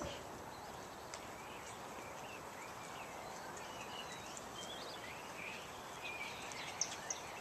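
Scattered bird chirps and short whistled calls over a steady outdoor background hiss, growing busier near the end.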